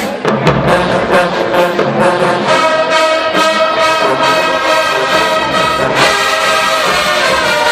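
Marching band brass section playing, with sharp drum hits at the start and then a long held brass chord.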